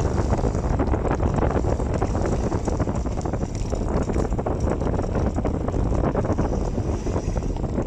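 Steady wind noise rumbling and buffeting on the microphone, at an even loudness throughout.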